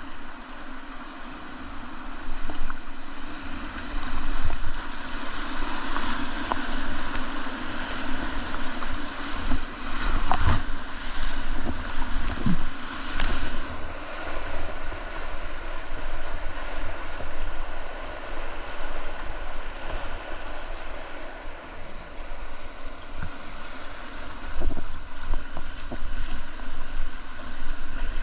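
Whitewater rushing around a kayak on a river in flood, with wind rumbling on the microphone and a few brief knocks. The rush is loudest and hissiest from about four to fourteen seconds in, then settles to a steadier flow.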